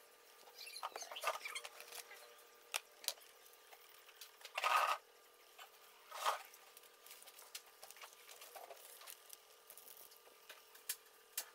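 Scattered small clicks and short scraping rustles of hard plastic parts being handled during netbook keyboard repair work, the loudest scrape about halfway through, over a faint steady hum.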